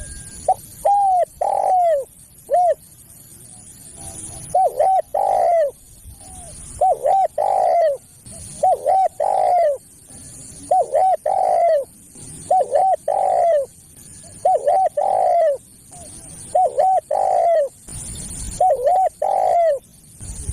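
Spotted dove (tekukur) cooing over and over. About every two seconds comes a phrase of two quick coos and then a longer, drawn-out coo: the territorial call that is used to lure other doves.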